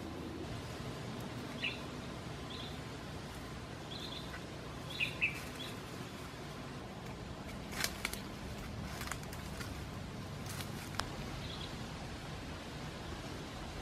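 Short, high bird chirps here and there over a steady outdoor background, with a few sharp snaps and rustles of twigs and leaves being handled on the forest floor, mostly in the second half.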